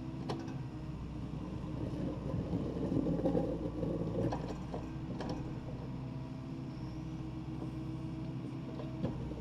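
Takeuchi TB260 midi excavator's diesel engine running steadily while digging, with a few sharp knocks. The engine grows louder for a second or two about three seconds in.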